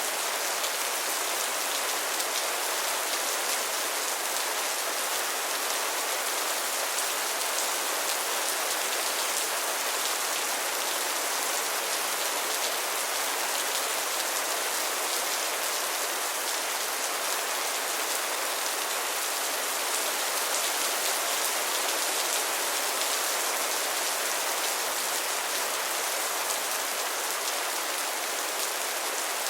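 Heavy rain falling steadily, an even hiss of many drops without pause or change.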